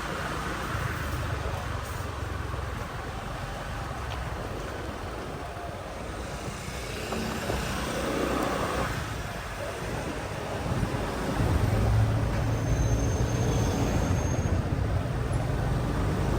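Motorbike ride through city traffic: a steady low engine and road rumble with the noise of passing traffic, growing louder about two-thirds of the way through.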